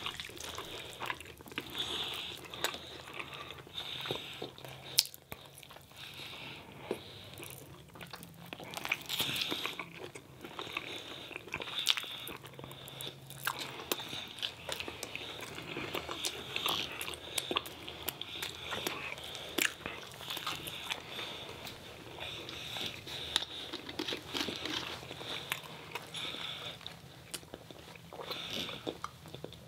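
Close-up eating sounds: people biting and chewing food, with wet mouth clicks and some crunching in an irregular, continuous stream.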